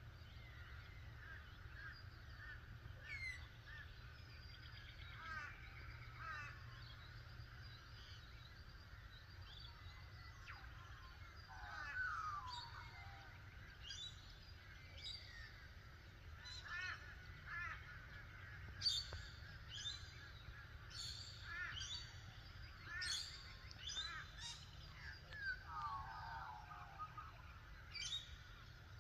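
Many birds calling together in a dawn chorus: overlapping chirps, whistles and short falling calls, over a steady low rumble.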